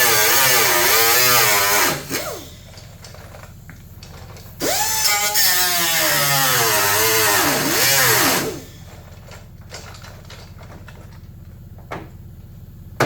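Handheld power grinder working sheet metal in two runs, the first stopping about two seconds in and the second lasting about four seconds, its pitch wavering up and down as the load on it changes. A single sharp knock comes near the end.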